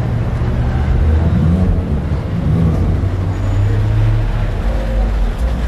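Car engines running at low speed, a steady low rumble, as lowered cars roll slowly past.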